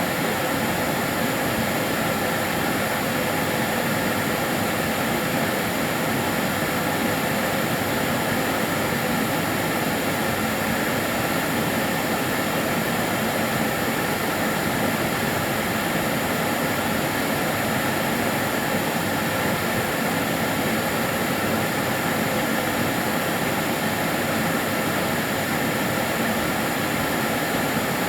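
Karcher DS 6 Premium water-filter vacuum cleaner running steadily: an even, unbroken motor-and-airflow noise with a faint high whine.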